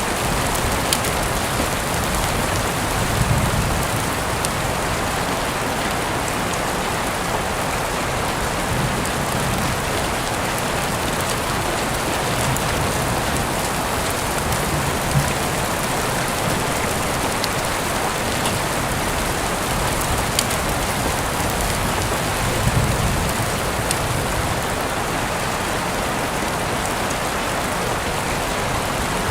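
Heavy rain falling steadily, heard through an open window, with a few sharper drop hits. A low rumble swells twice, about three seconds in and again near the end.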